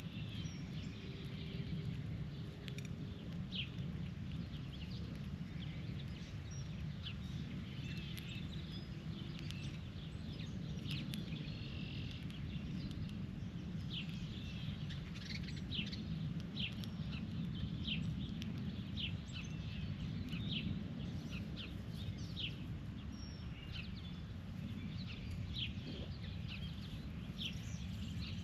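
Birds chirping outdoors: many short, sharp high chirps, coming more thickly in the second half, over a steady low rumble of background noise.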